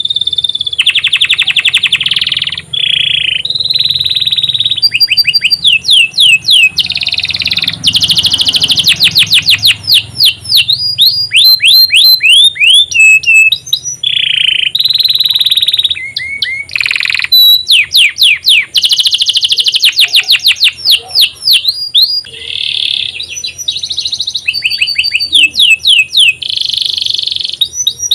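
Domestic canary singing a long, continuous song: fast rolls of repeated notes, quick downward-sliding whistles and a few held notes, with only brief breaks between phrases.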